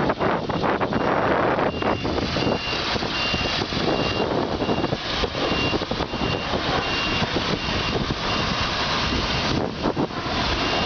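Fuel truck driving, its engine and road noise running steadily under a high-pitched beeping alarm, about one beep every 0.7 s.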